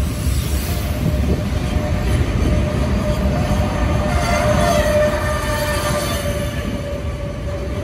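Freight train of Taki 1000 and Taki 43000 tank wagons rolling past close by, with a steady rumble of wheels on rail. A squealing tone from the wheels swells over the middle.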